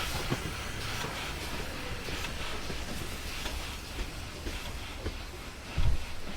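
Train running on the rails, with scattered wheel knocks over the rail joints, slowly fading as it moves away. A loud low thump comes near the end.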